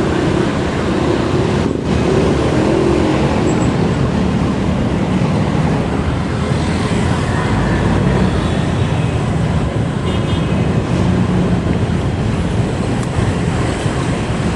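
Steady, deep rushing noise of riding a bicycle along a road with traffic: wind and road noise on the rider's camera microphone.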